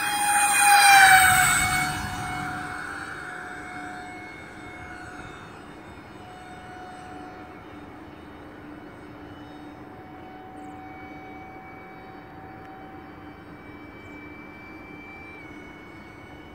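Electric ducted fans of a radio-controlled Airbus A330 model airliner in flight. Their whine peaks about a second in and drops in pitch as the plane passes close by, then settles into a steady, fainter whine as it flies on.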